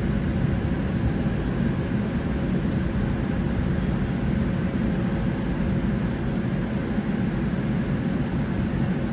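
An original TGV-based Renfe Euromed high-speed train running, heard as a steady low rumble with a faint hum.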